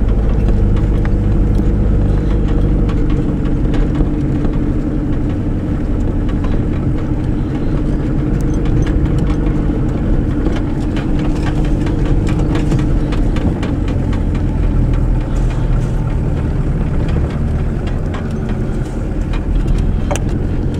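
Vehicle engine running steadily at low speed, heard from inside the cabin, with scattered clicks and rattles over the rough track.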